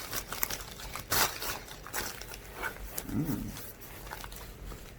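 Plastic supplement tubs being handled, giving a series of sharp clicks and knocks with some rustling, and one short voiced sound about three seconds in.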